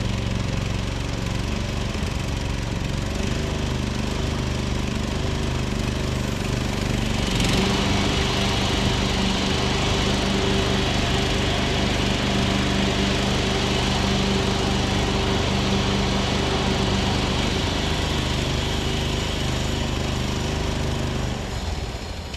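Riding lawn tractor's small engine running steadily after starting on choke; it runs louder from about seven seconds in, then dies down near the end as it is shut off.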